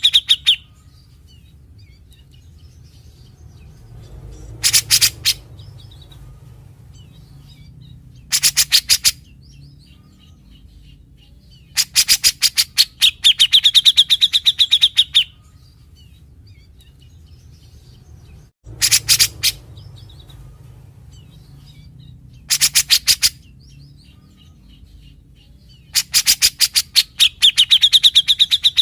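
Grey-cheeked bulbul (cucak jenggot) calling in harsh, fast rattling phrases of rapid clicks. These are the 'besetan' the bird is prized for. Six phrases come every three to four seconds: most are short, and one lasts about three seconds. A low steady hum runs underneath.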